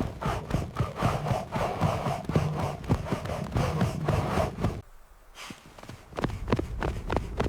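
Quick repeated footfall thuds with heavy breathing, breaking off briefly about five seconds in and then starting again.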